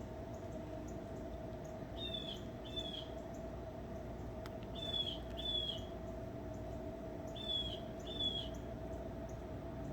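A bird calling in three pairs of short, high notes, each pair a little over half a second apart, over a steady hum.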